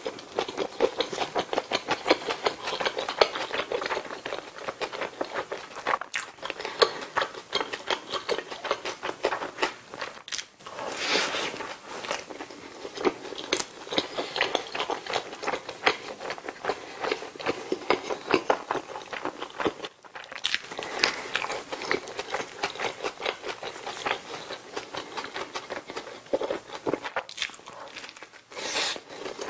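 Close-miked chewing of a McDonald's burger, with bun, patty and lettuce worked in the mouth as a dense run of quick clicks. It breaks off briefly about ten seconds in and again about twenty seconds in, and a fresh bite comes near the end.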